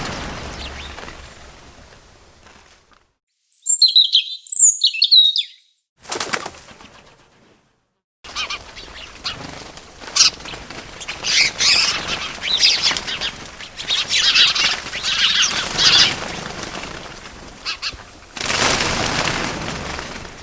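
Small birds chirping and wings flapping, in separate short bursts broken by two brief dead-silent gaps; a loud cluster of high chirps comes about four seconds in, dense chirping fills the middle, and a rush of flapping comes near the end.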